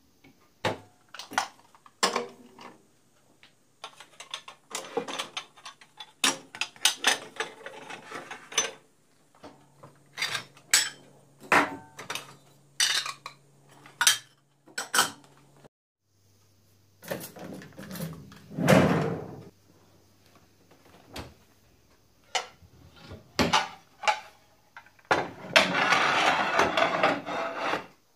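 Kitchen things being handled, moved and set down: a string of clinks, knocks and clatter of dishes and utensils, with a few longer noisy stretches. The sounds stop briefly about halfway through.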